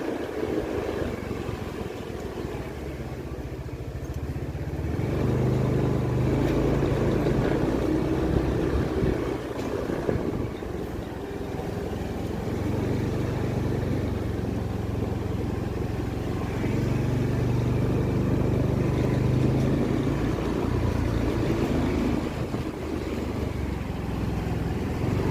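An engine running steadily, its low hum growing louder about five seconds in and shifting up and down in pitch over the rest of the stretch.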